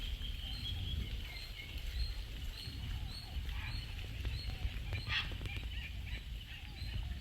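Many birds calling at a waterbird nesting colony: scattered faint calls, a short chirp repeating a few times a second, and one louder call about five seconds in, over a low rumble.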